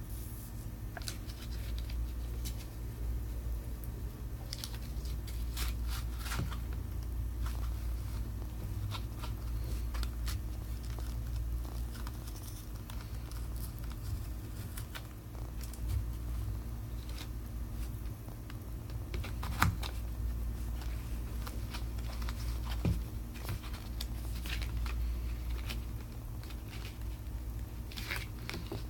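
Small tools working on a Samsung Galaxy S7 Edge phone: scattered clicks, scrapes and tearing crackles, as of adhesive being pried apart, over a steady low hum.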